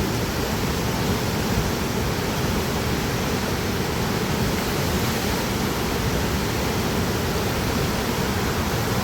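Steady rushing of fast-flowing water, an even, unbroken roar with no breaks or changes.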